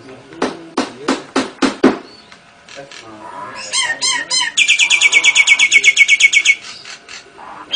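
Cage birds singing: a Nias hill myna, lovebird and canary. A run of harsh rhythmic calls, about four a second, comes first. Falling chirps follow, then a fast, high, even trill lasting about two seconds.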